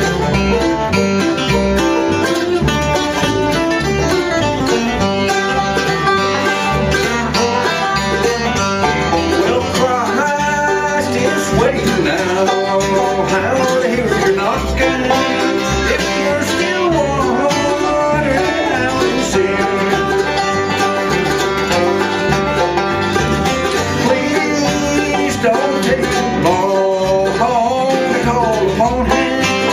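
Bluegrass band playing live, with banjo and guitar over a steady beat.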